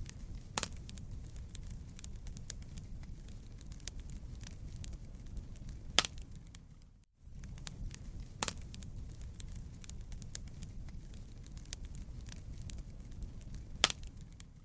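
Wood fire burning in a fireplace, crackling steadily over a low rumble, with a few sharp, louder pops. The sound cuts out briefly about halfway through and comes straight back.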